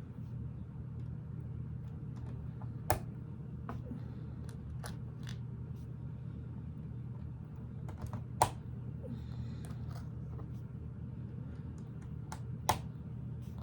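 Small plastic Lego pieces clicking and tapping as they are handled and pressed together, with three sharper clicks standing out, over a steady low hum.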